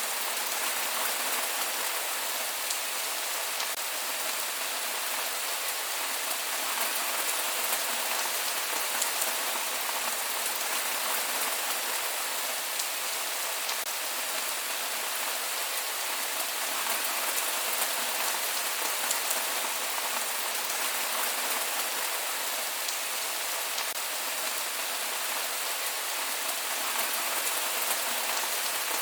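Steady rain falling without thunder, an even hiss with scattered individual drops ticking.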